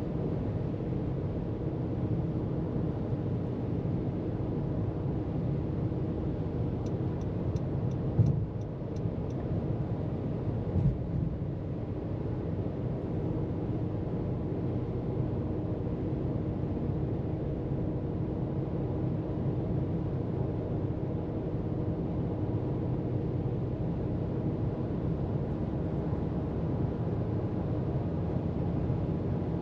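Car cruising at freeway speed: steady tyre and engine rumble with a constant low hum. A sharp bump about a quarter of the way in and a smaller one a few seconds later.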